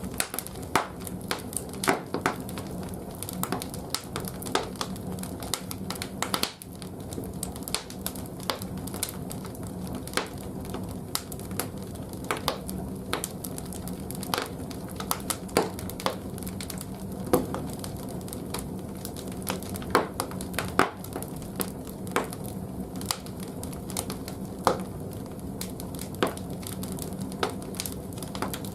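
Large firewood burning in a wood-fired bathhouse boiler's firebox: irregular sharp crackles and pops over a steady low hum.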